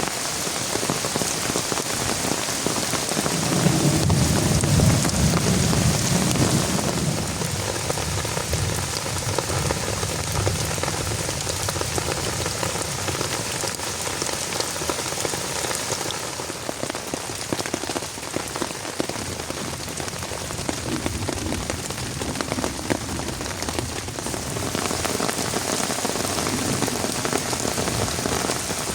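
Heavy rain falling steadily. A low rumble swells about three seconds in and fades out by about seven seconds.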